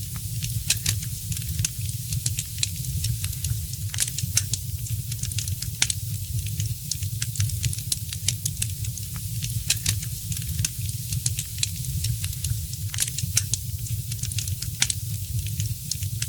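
Fireplace fire crackling, with irregular sharp pops several times a second over a steady low rumble and a soft hiss.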